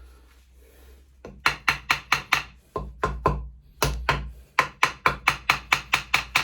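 Pit bike engine's rocker arms rocked by hand against the valve stems to check for valve play: sharp metallic clicks, a few irregular ones from about a second in, then an even run of about three a second.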